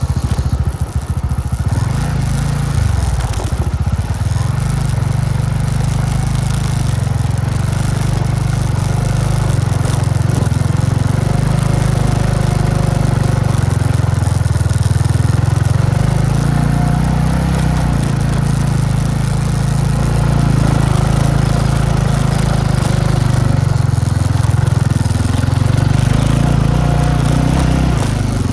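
Motorcycle engine running steadily under load while climbing a steep hill, with a brief dip and rise in pitch about three seconds in.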